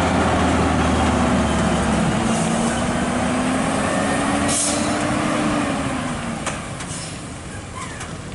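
Volvo FH16 550 truck's diesel engine running as it goes by, its tone rising slightly, then fading away after about six seconds. A short hiss comes about four and a half seconds in.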